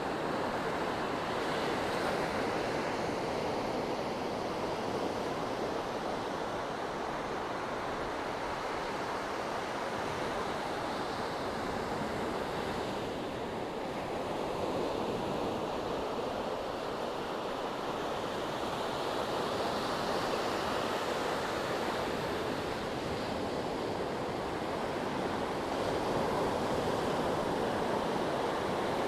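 Sea waves: a continuous wash of surf that swells and eases slowly.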